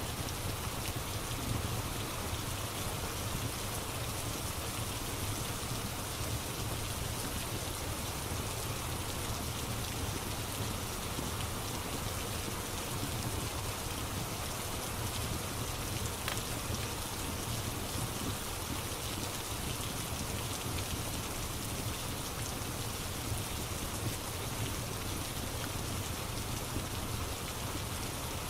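Steady rain falling, an even hiss of rain on a surface, with a few faint crackles of a wood fire.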